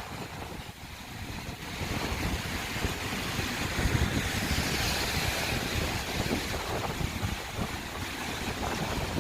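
Rough sea surf washing onto the beach, a wave swelling about two seconds in and breaking around the middle before easing off, with wind rumbling on the microphone.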